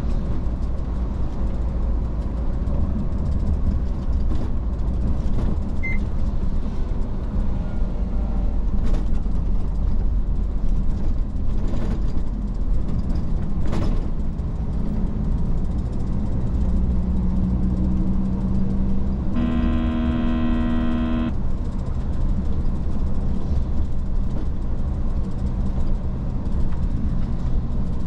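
Iveco S-Way truck driving: a steady low engine and road drone with a few sharp clicks. Past the middle, a horn sounds once for about two seconds.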